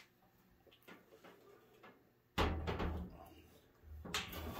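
A box fan being handled and moved: a sudden thump a little past halfway, then further knocks and rattles near the end.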